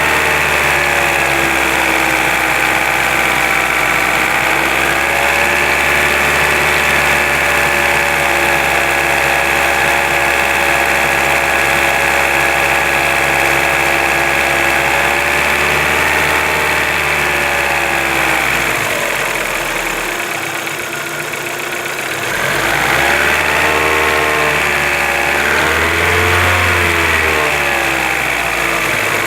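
Car engine running, its speed held fairly steady for most of the time, then dropping off about two-thirds of the way through and picking up again in two short rises and falls near the end.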